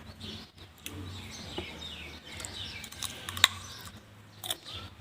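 Birds chirping in short calls, with a few sharp clicks, the loudest about three and a half seconds in.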